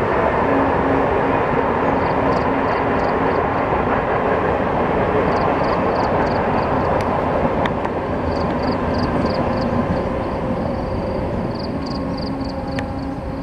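Garib Rath Express passenger train running past: a steady rush of wheels on rail with a faint low hum, easing off a little in the second half.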